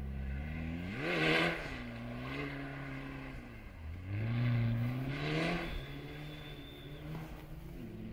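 Rally car engine revving hard as the car passes. The pitch climbs sharply about a second in, drops back, climbs again around four to five seconds in, then settles to a steadier, quieter note as the car moves away.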